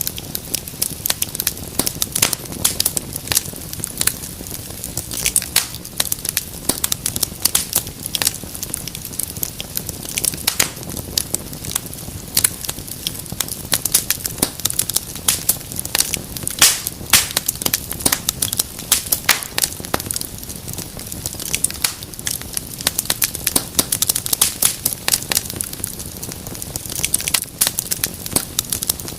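Fire in a fireplace crackling: many irregular sharp pops and snaps over a steady low rush of flame.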